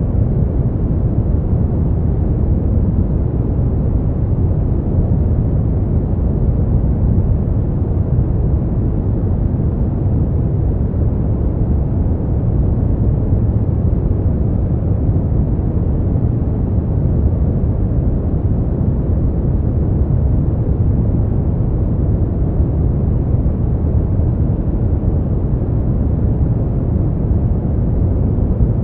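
Steady brown noise: a deep, even rumble-like hiss with no changes.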